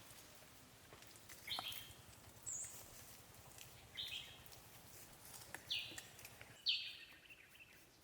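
Birds chirping: five short, high chirps spread across a few seconds, the loudest near the end, over a faint hiss.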